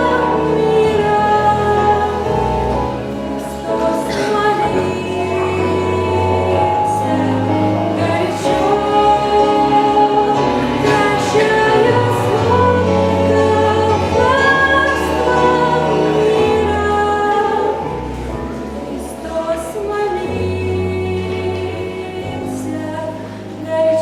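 A woman singing a song over instrumental accompaniment, with sustained bass notes that change every couple of seconds.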